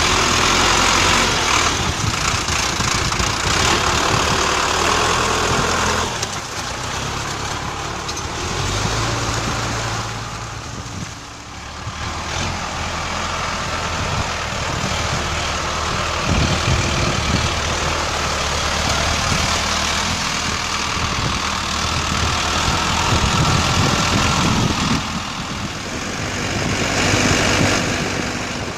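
Diesel engine of a Sonalika DI 60 RX tractor running, its loudness falling and rising several times.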